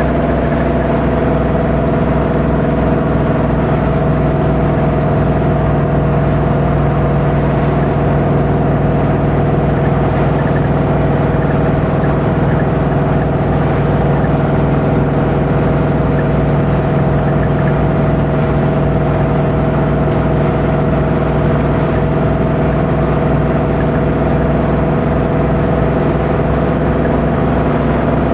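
A 2015 Ford Coyote 5.0 V8 in a classic Ford Bronco cruising at a steady freeway speed, exhausting through a long Magnaflow muffler. The engine and exhaust drone holds one pitch throughout, with no revving.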